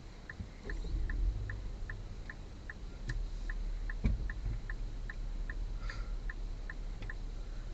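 Car's indicator relay clicking at an even pace of about two and a half ticks a second, over the low rumble of the car. There is a single knock about four seconds in.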